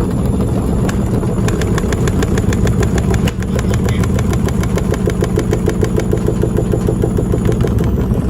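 Candy SmartTouch washing machine spinning an unbalanced load: the machine bangs in rapid, regular knocks, several a second, over a steady motor and drum hum.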